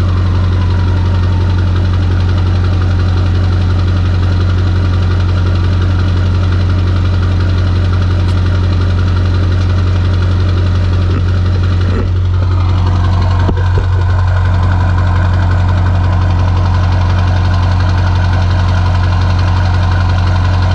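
LBZ Duramax 6.6-litre V8 turbodiesel, fitted with a single 72mm non-VGT turbo and a 5-inch straight-pipe exhaust, idling steadily. A high whistle falls away in pitch in the first couple of seconds.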